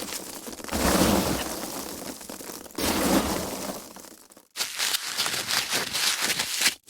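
Foam packaging being handled and squeezed: a dense crackling and rustling in several swells, fading out about four seconds in and starting again after a short gap.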